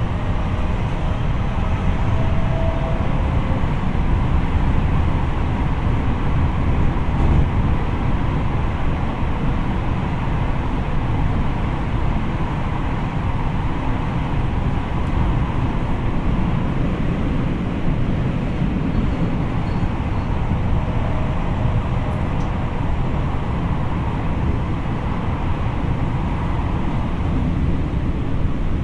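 Cabin running noise of a Tokyo Metro 03 series electric train, car 03-604, cruising: a steady rumble of wheels on rails with no clear change in speed.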